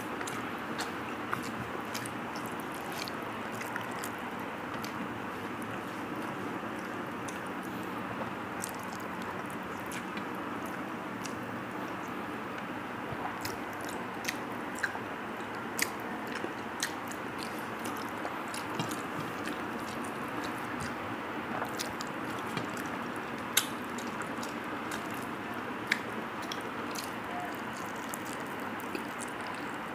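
Close-up chewing and lip-smacking of a person eating rice by hand, with many short sharp mouth clicks scattered through, over a steady background hiss.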